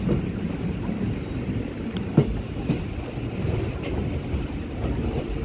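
Indian Railways passenger coaches running along the line, heard from an open window: a steady low rumble of wheels on rails, with a few sharp clicks in the middle.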